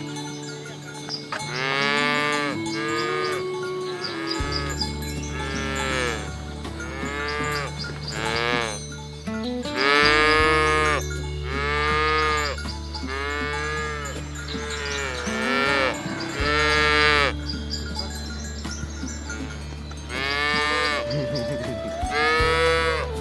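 Cattle mooing, about a dozen separate calls one after another, each lasting about a second and bending in pitch, over background music with a steady low bass.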